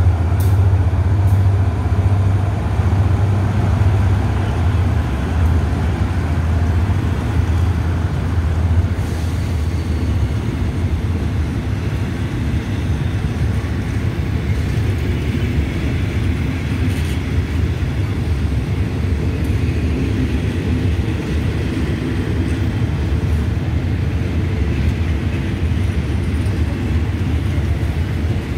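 Passenger coaches of a departing diesel-hauled train rolling past, a steady rumble of wheels on rail with a few sharp clicks. A low drone from the General Electric diesel locomotive at the head of the train fades after about ten seconds as it pulls away.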